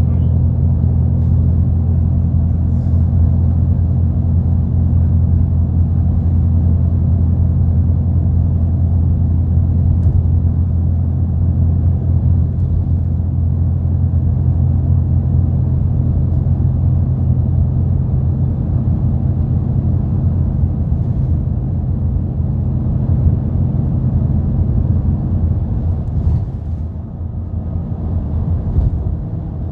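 Inside a moving route bus: the engine and road noise make a steady low rumble, easing off a little near the end.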